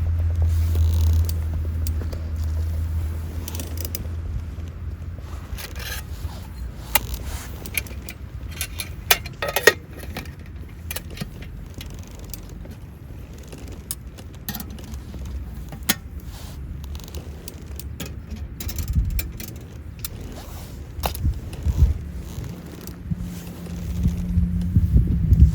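Scattered clicks, scrapes and light rattles of things being handled, over a low rumble that is strongest at the start and swells again near the end.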